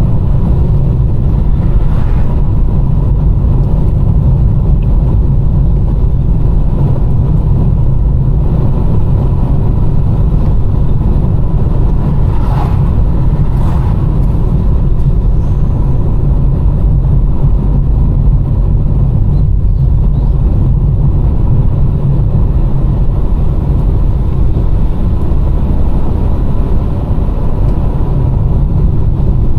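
Car driving on a road: a steady low rumble of engine and road noise, with a couple of faint short knocks about twelve and fourteen seconds in.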